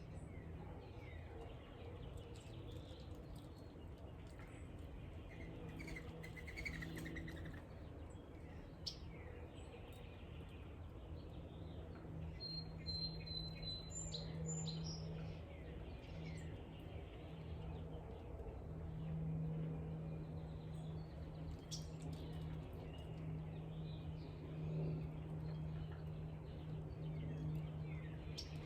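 Wild birds chirping faintly and intermittently, with one brief high whistled note about halfway through, over a steady low hum.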